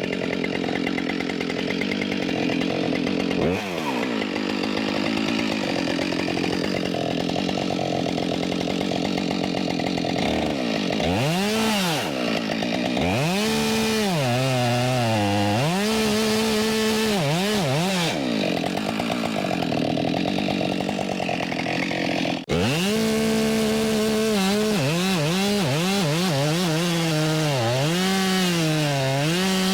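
Husqvarna 572XP two-stroke chainsaw running at high revs and cutting into a tree trunk. From about a third of the way in, its engine note sags and climbs back again and again as the chain bites and frees in the cut.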